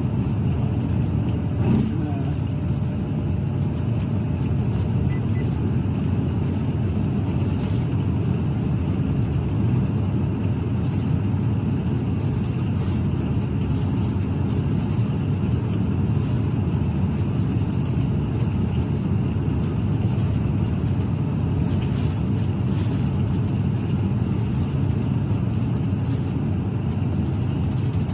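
Steady road and engine noise of a moving patrol car, heard from inside the cabin.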